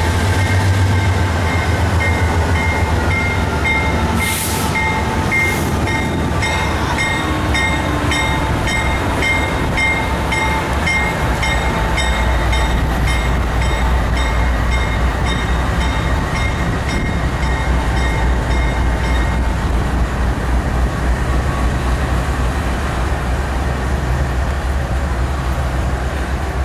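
BNSF diesel freight train passing close by: a steady deep rumble of locomotive engines and wheels on the rails. Over it a bell-like tone repeats about twice a second and stops about twenty seconds in.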